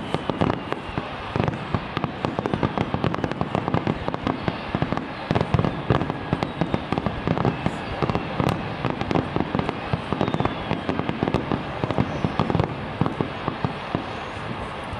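Japanese aerial firework shells bursting in a rapid star mine finale barrage: many sharp bangs close together and overlapping, with crackling, thinning slightly near the end.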